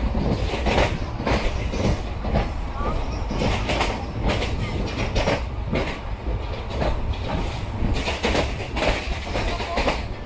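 Indian Railways passenger coach running at speed, its wheels clattering over the rail joints in a steady clickety-clack over a low rumble.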